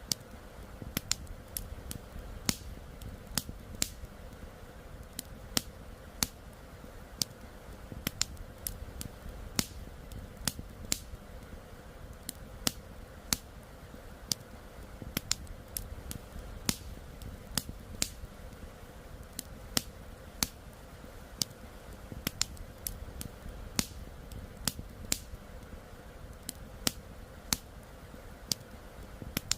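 Campfire crackling: sharp, irregular pops and snaps, about one or two a second, over a steady low rumble.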